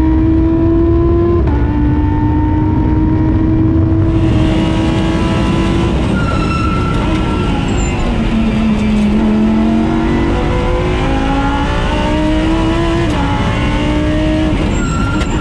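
A race car engine running hard on track, its pitch stepping down at each gear change. The revs sink low about halfway through as the car slows, then climb again through two more quick shifts near the end.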